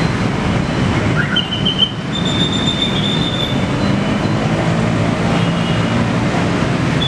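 Train passing close by: a steady rumble of wheels on rails with high, thin wheel squeals, the longest lasting about a second and a half a couple of seconds in.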